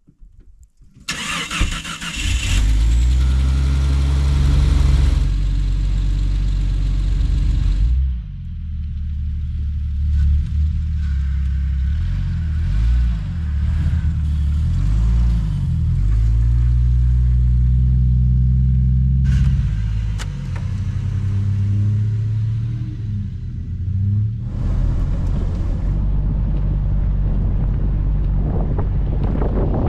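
Off-road vehicle engine running while driving down a snowy trail; it comes in abruptly about a second in and its pitch rises and falls with the throttle.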